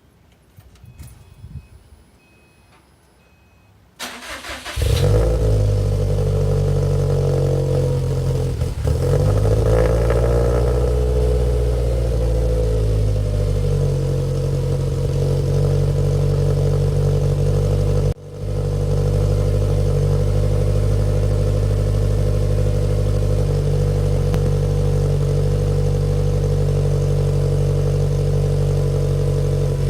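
Subaru STI's turbocharged flat-four boxer engine, fitted with equal-length headers, cranked by the starter and catching about four seconds in. It idles high, dips and picks up again a few seconds later, then settles into a steady idle, with the sound cutting out for an instant midway.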